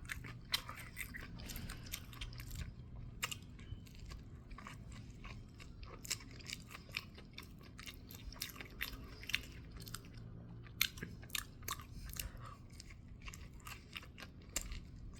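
A person chewing a mouthful of deep-fried spicy chicken sandwich, with faint, irregular crunching clicks throughout.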